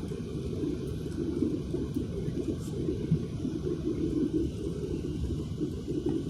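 Airliner cabin noise during the climb after takeoff: a steady low rumble of engines and airflow that keeps fluttering.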